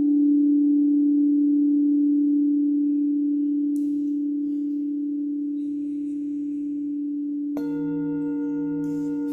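A singing bowl ringing with a steady low tone that slowly fades; about seven and a half seconds in, a second bowl is struck and adds a higher ring over it.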